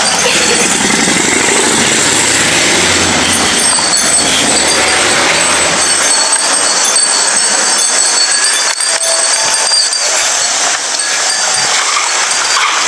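Enoden electric train running past at close range, its wheels rumbling loudly on the rails. The low rumble drops away about six seconds in, leaving the higher rail and wheel noise.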